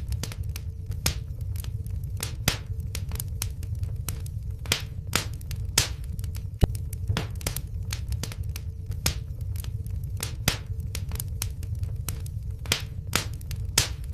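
Wood fire in a fireplace crackling, with irregular sharp pops and snaps, several a second, over a steady low rumble of flame.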